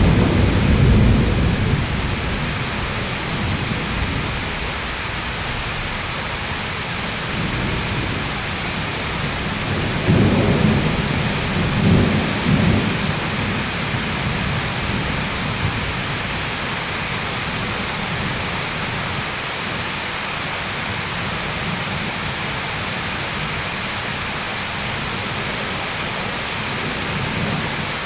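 Thunderstorm: steady heavy rain hiss with rolls of thunder, one rumbling off at the start and two more low rumbles about ten and twelve seconds in.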